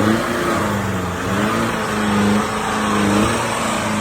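Off-road 4x4 engine revving, its pitch rising and falling several times.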